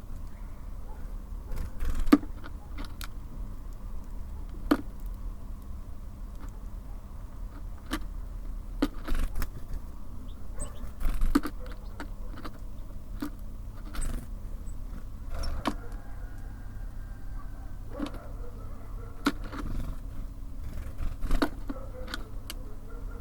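Birds pecking and hopping on a wooden bird feeder: irregular sharp taps and knocks, a second or a few seconds apart, over a steady low rumble.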